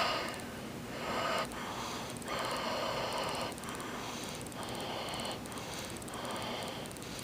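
A person breathing close to the microphone, a run of hissy breaths in and out coming about once a second.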